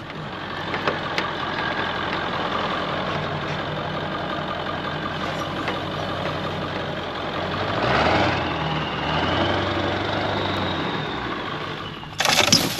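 Ford F-350 crawling at low speed with its engine running steadily while tree branches scrape and drag along both sides of the body. About eight seconds in the scraping grows louder, with a rising squeal of branch on paint, and near the end comes a sudden loud scrape and knock.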